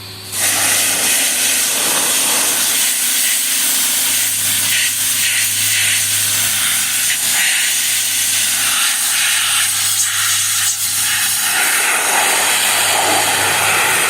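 A 5 hp Briggs & Stratton small engine running steadily, under a loud steady hiss that starts suddenly just after the start.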